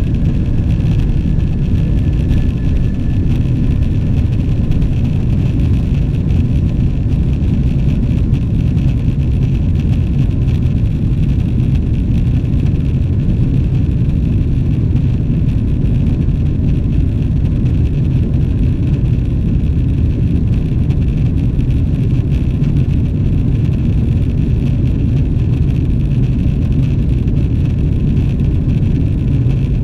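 Steady low roar inside the cabin of a Boeing 777-300ER: its GE90 engines at climb power and the rush of air along the fuselage after takeoff.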